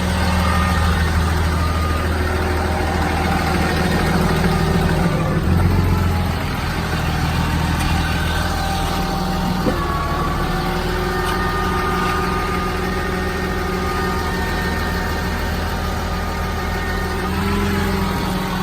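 The 2010 Dodge Ram 5500 bucket truck's 6.7-litre Cummins turbo-diesel is idling steadily. Its note shifts slightly around six seconds in and again near the end.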